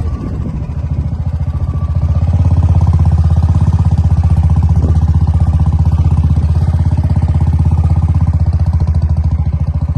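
Motorcycle engine running steadily, a fast even low pulsing that grows a little louder about two seconds in.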